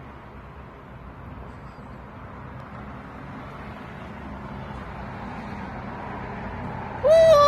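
Steady background noise, then near the end a short, loud, high-pitched call from a pet parrot, held for about half a second.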